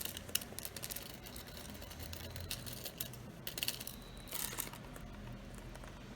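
Budgerigars pecking at and jostling a small metal chain toy: irregular light clicks and clinks, bunched together about three and a half to four and a half seconds in.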